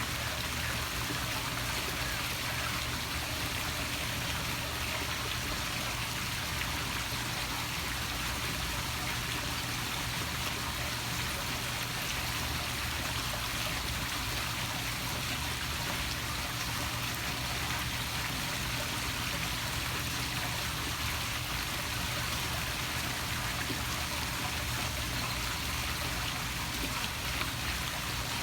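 Poolside waterfall splashing steadily into the pool.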